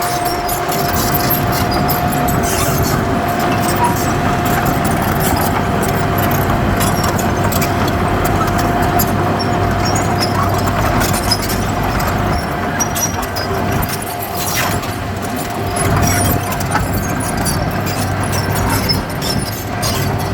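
Heavy diesel earthmoving machinery running steadily, with a constant high whine over the engine and scattered metallic clinks.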